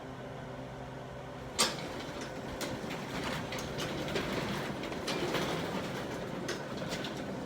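Sectional garage door being raised by hand, its rollers rumbling and clicking along the tracks, with a sharp clack about a second and a half in.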